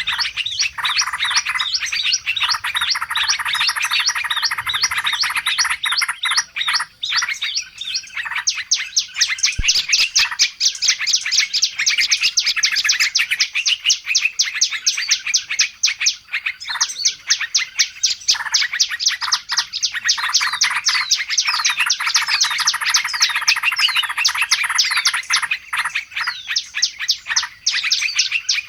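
Dense chorus of small birds chirping and chattering in a rapid, unbroken stream of short notes: a noisy-bird lure (pikat) recording played to attract wild birds.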